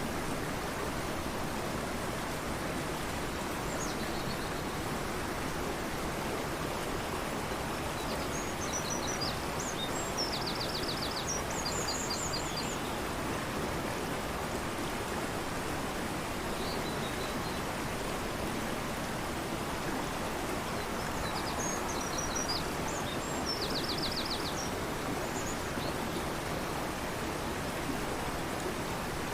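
Fast-flowing river rushing steadily, with a small songbird singing twice: short high phrases, each ending in a quick trill.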